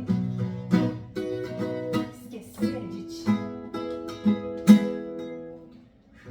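Acoustic guitar playing strummed chords at a slow, even pace. The last chord, struck a little before the end, rings out and fades away.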